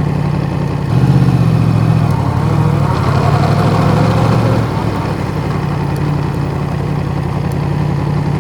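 Yamaha MT-10's crossplane inline-four, with an Akrapovic exhaust, running steadily at low revs, slightly louder from about a second in, then cut off suddenly at the end as the engine is switched off.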